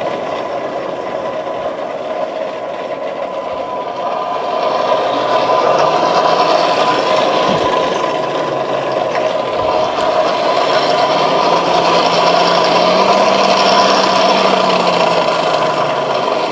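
A blacksmith's forge running steadily, a constant rushing noise with a steady hum, growing a little louder about four seconds in. The steel is heating toward forge-welding heat, with the flux on it melting.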